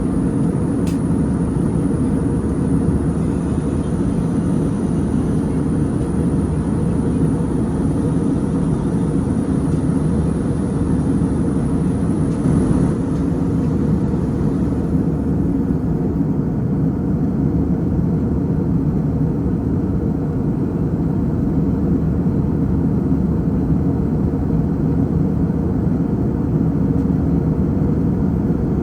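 Airliner cabin noise in flight: a steady, even rumble of engines and airflow, heaviest in the low end, heard from a passenger seat.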